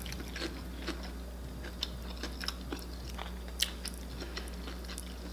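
A person biting into a fried vegan drumstick and chewing it, with scattered sharp crunches of the fried coating; the loudest crunch comes about three and a half seconds in.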